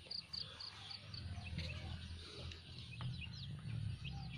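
Faint high bird chirping: a quick run of short peeps at the start, then scattered short falling chirps, over a low steady rumble.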